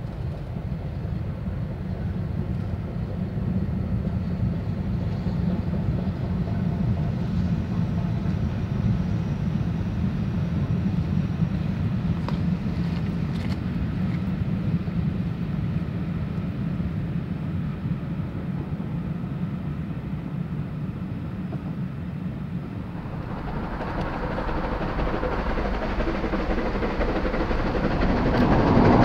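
Train running on the rails: a steady low rumble, then a rush of noise that grows louder over the last six seconds or so.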